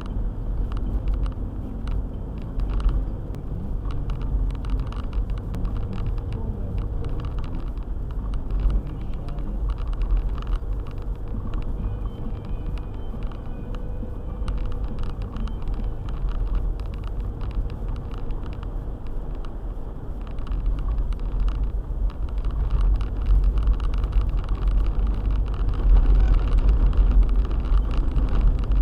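Car on the move through snow: a steady low rumble of engine and tyres, with many faint ticks, growing louder after about twenty seconds.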